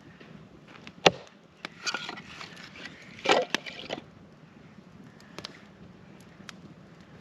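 Wood cracking: a sharp snap about a second in, then a couple of seconds of cracking and rustling of sticks, followed by faint scattered ticks.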